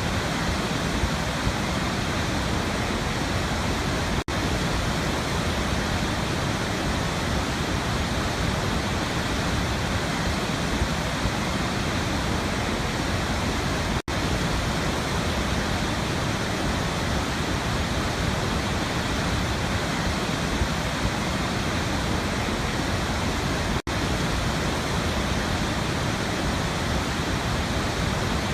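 Waterfall rushing: a steady, even roar of falling water, broken three times by a brief dropout about ten seconds apart.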